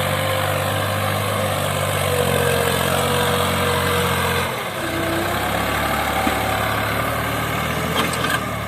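Tractor diesel engine running steadily. About halfway through, its low note drops and changes.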